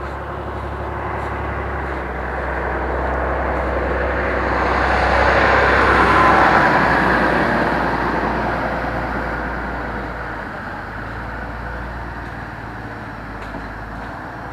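A road vehicle passing by: its noise swells to a peak about six seconds in and then fades away.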